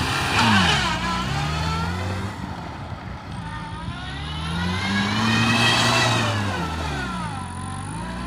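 Maruti Zen hatchback's engine under hard throttle as the car drifts in circles on loose dirt. Its note rises about half a second in, drops back, then climbs to a long high stretch around five to six seconds before falling away again.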